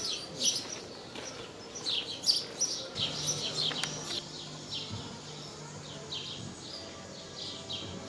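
Small birds chirping: many short high chirps in quick succession, dense in the first half and thinning out later.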